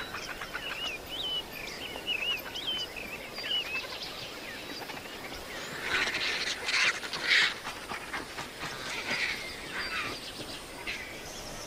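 Wild birds calling: a quick run of short, up-and-down chirps in the first few seconds, then harsher, raspy calls about six to seven and a half seconds in.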